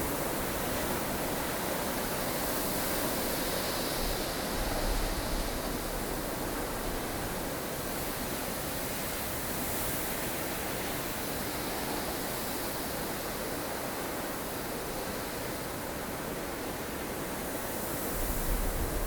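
Blustery snowstorm wind blowing steadily, with gusts swelling about a quarter of the way in and again near the end.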